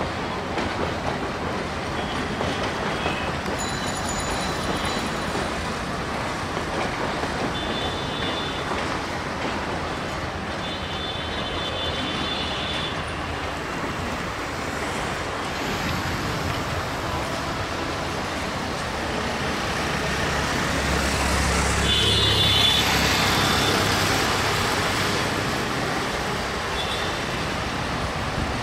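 Diesel locomotive hauling a container freight train slowly, its engine and wagons rumbling over a steady wash of city traffic noise, with a few brief high-pitched toots now and then. The rumble swells louder about three quarters of the way through as the locomotive draws near.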